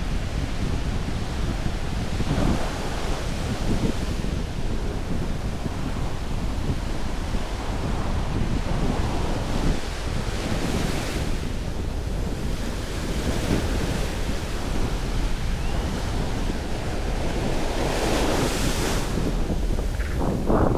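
Ocean surf breaking and washing up the beach, with wind buffeting the microphone. Two louder waves surge in, about halfway through and near the end.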